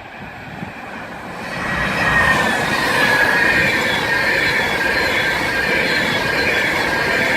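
Virgin Class 390 Pendolino electric train running along the platform, growing louder about a second and a half in, then a steady rumble with a high squeal from the wheels that slowly drops in pitch.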